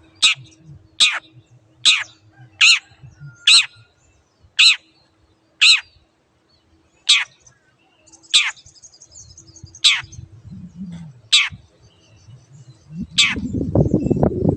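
Long-tailed shrike giving a string of harsh, down-slurred calls, twelve in all, about one a second at first and then more spaced out. A low rumbling noise comes in near the end.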